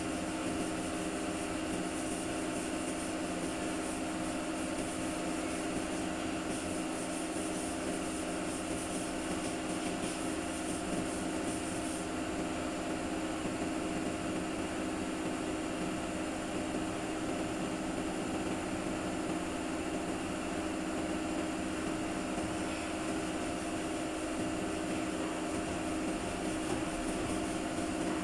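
A workshop machine running steadily with an even hum. A higher hiss over it stops about twelve seconds in.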